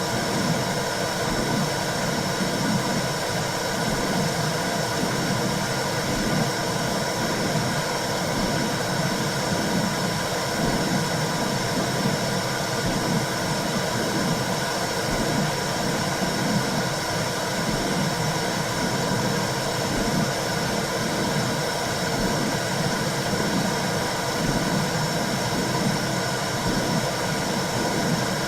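Womb-sound recording for calming a baby: a steady low whooshing noise with a slow, rhythmic pulsing in the low end.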